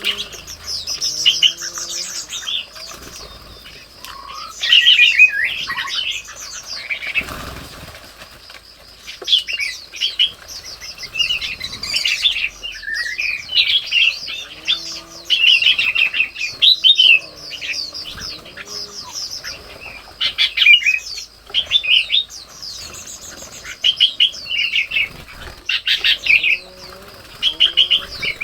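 Red-whiskered bulbuls chirping and chattering in quick, bright bursts, many calls overlapping, with lower wavering bird calls now and then. A brief noisy flurry comes about seven seconds in.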